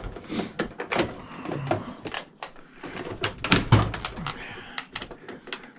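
Irregular clicks and knocks of hard parts being handled while an old cash register is taken apart, with a louder knock or two about three and a half seconds in.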